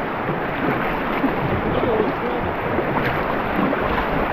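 Rushing, gurgling river water of a shallow rapid around a paddled kayak, a steady wash with small irregular splashes.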